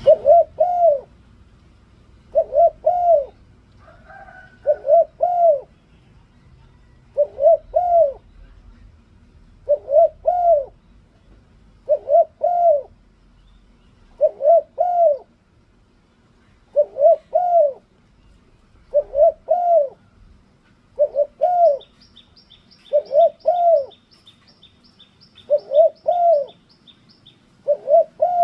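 A dove cooing over and over, each call a short phrase of two or three rising-and-falling coos, repeated about every two seconds. From about 21 to 27 seconds a small bird adds a fast run of high, thin chirps.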